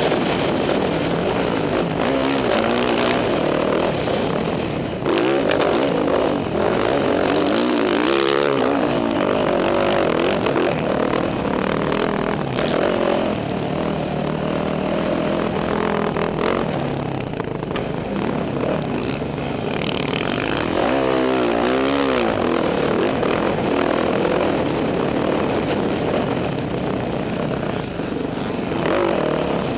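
Dirt bike engine revving up and down again and again as it is ridden, over a constant rushing noise.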